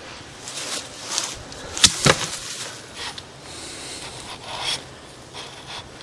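Fuel filter bowl's retaining ring being worked loose and unthreaded by hand: scraping and rubbing of the threads, with a sharp click about two seconds in.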